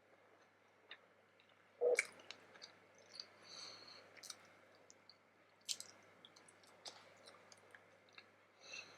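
Close-up chewing and wet mouth clicks of someone eating vegetable momo dumplings, with one sharper, louder short sound about two seconds in.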